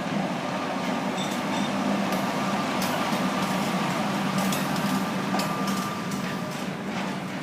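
A vehicle running steadily, with a constant low hum and scattered clicks and knocks.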